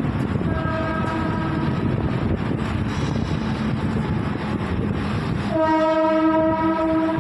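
Mumbai suburban electric local train running, with a steady rumble under two horn blasts: a short one about half a second in and a longer, louder one starting near the end.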